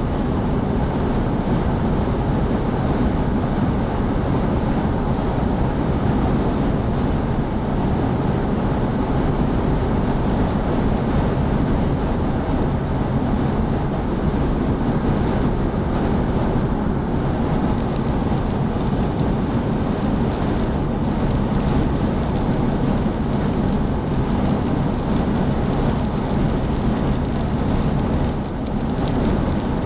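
Strong wind rushing and buffeting the microphone over the steady road and engine noise of a vehicle at highway speed, with scattered faint clicks in the second half.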